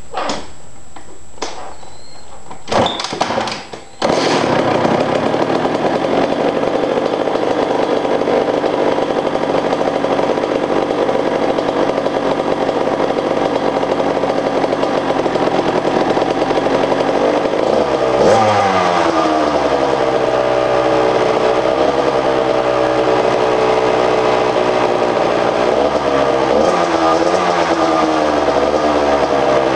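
Two-stroke dirt bike engine with a freshly repacked Pro Circuit R-304 shorty silencer, started from cold: a few clicks and a short sputter, then it catches about four seconds in and idles high and steady on the choke. About two-thirds through, and again near the end, the throttle is blipped and the revs rise and fall back. The owner judges the exhaust quieter.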